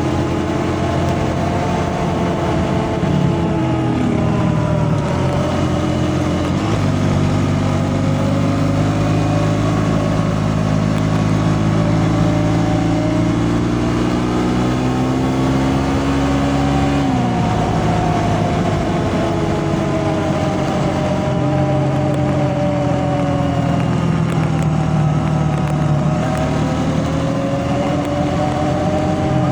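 A motor vehicle's engine running while driving, its pitch rising and falling with speed. The pitch drops sharply several times, most clearly about halfway through, as it is eased off or shifted.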